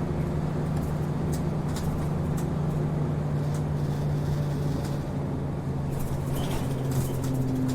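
City route bus's diesel engine running, heard from inside the passenger cabin: a steady low drone that drops slightly in pitch about five seconds in, with scattered light ticks and rattles over it.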